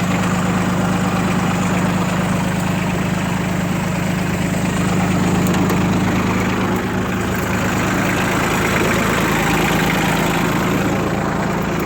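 Ford 1520 tractor's three-cylinder diesel engine idling steadily through its new muffler.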